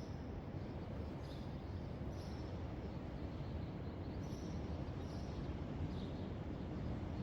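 Steady low rumble of downtown city ambience, with short faint high chirps recurring about once a second.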